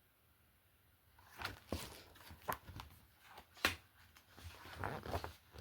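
Picture-book pages being handled and turned: a near-silent second, then scattered soft rustles and taps of paper.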